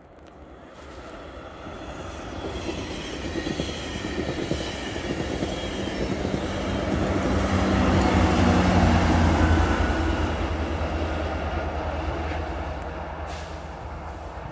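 GO Transit commuter train of six bilevel cars passing at speed, pushed by an MP40 diesel locomotive at the rear: rushing wheel and car noise builds steadily, the locomotive's engine hum is loudest about eight to ten seconds in as it goes by, then the sound fades.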